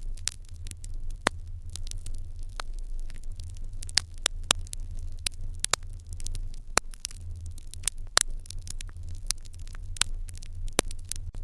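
Wood fire crackling in an irori hearth: irregular sharp pops and snaps, several a second, some louder than others, over a steady low rumble.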